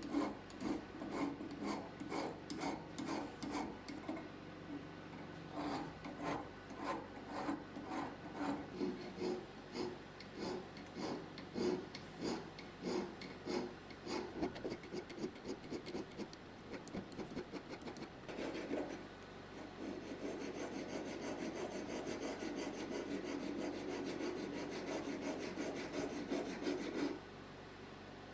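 Hand file rasping on a silver workpiece in rhythmic back-and-forth strokes, about two to three a second. After a short pause it turns into a faster, steadier rasping that stops shortly before the end.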